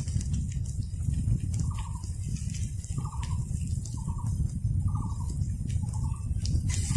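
A bird calling over and over, short notes repeated about once a second, over a steady low rumble.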